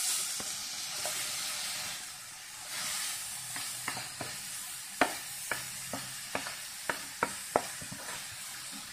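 Grated raw papaya sizzling as it drops into hot ghee in a frying pan: a steady frying hiss. From about three seconds in, a run of sharp taps and clicks as the plate is knocked and scraped empty over the pan.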